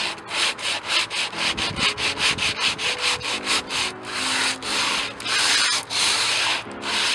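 Sandpaper rubbed back and forth by hand over wood in fast, scratchy strokes, about four or five a second, slowing to longer strokes about halfway through.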